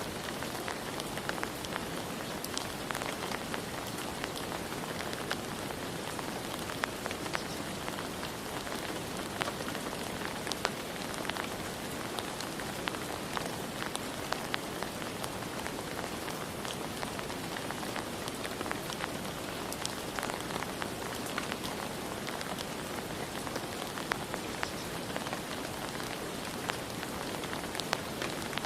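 Steady rain falling, an even hiss with many separate drops pattering close by.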